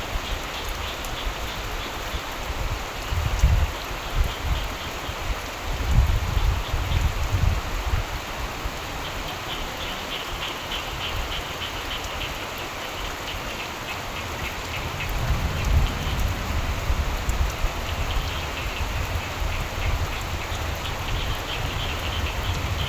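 Steady rain falling, with frogs calling in rapid pulsing trills that come and go several times. Low rumbles of distant thunder swell and fade beneath.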